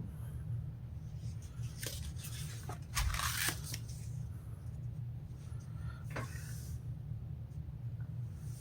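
Paper rustling and crinkling a few times as a booklet's pages are handled, loudest about three seconds in, over a steady low hum.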